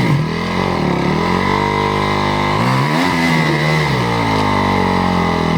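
Big Honda dirt bike's engine revving up and down over and over, its pitch rising and falling as it labours on a steep rocky climb. The bike is in a bad way, running hot.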